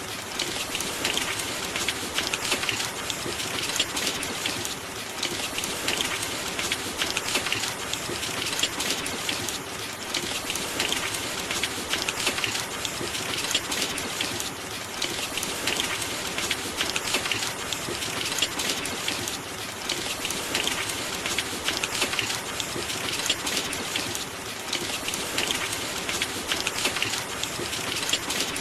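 Steady heavy rain, a dense patter of drops that swells and eases gently every couple of seconds.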